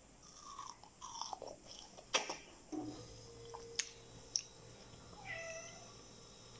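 Wet biting and chewing of juicy watermelon, with a few sharp clicks; the loudest comes about two seconds in. Short falling calls are heard faintly in the background, once early on and once near the end.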